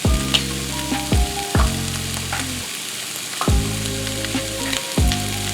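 Chicken pieces frying in oil and curry seasoning in a pot with a steady sizzle, and a few sharp knocks as the pot is stirred.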